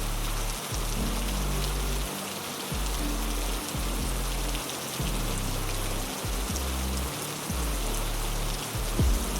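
Heavy, steady rain falling, with low sustained music notes underneath that change every second or so. A brief low thump comes near the end.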